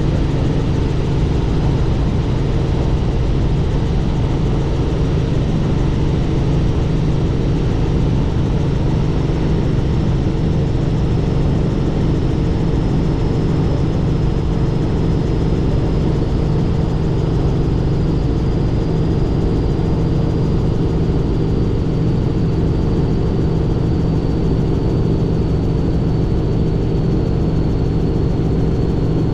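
Helicopter in flight: steady, loud rotor and engine noise, with a faint high whine that drifts slowly lower in pitch.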